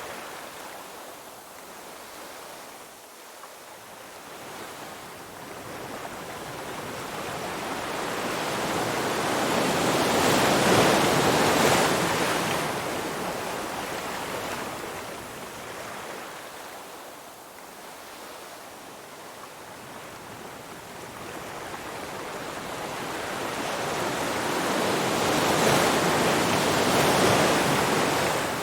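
Ocean waves surging and washing back in a slow cycle. The sound builds to a loud peak about a third of the way in, falls to a lull, then swells again near the end.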